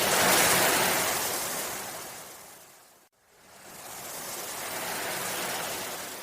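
Ocean waves washing in twice, each swelling and then fading away; the first is louder and breaks off abruptly about three seconds in.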